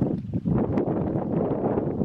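Wind buffeting the microphone, a steady low rumble with a few faint clicks.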